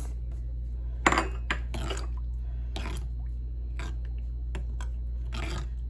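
Kitchen utensils and dishes knocking and clinking: about eight separate sharp knocks spread over several seconds, the loudest about a second in, over a steady low hum.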